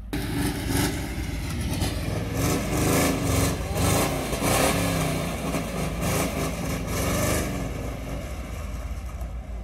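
Car engine revving up and down unevenly under load as the driver tries to drive the car off the hump it is stuck on.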